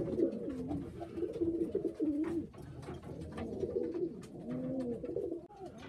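Domestic loft pigeons cooing: low, wavering, overlapping coos, with a few light taps among them.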